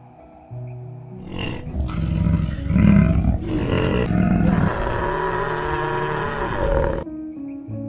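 A large animal roaring: one long rough call that starts a little over a second in and cuts off near the end, over soft background music.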